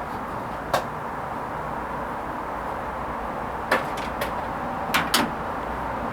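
Hoover Vision HVP16 washing machine running a Silks 30 wash, with a steady running noise and a few sharp clicks and knocks: one about a second in, then a quick cluster of four or five near the end.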